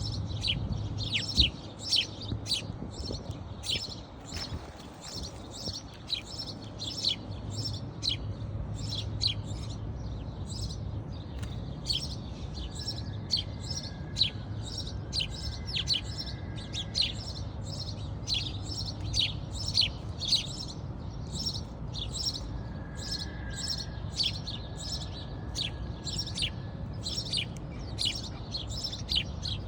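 Birds chirping continuously: a dense run of short, high, quick chirps, with a low steady hum underneath.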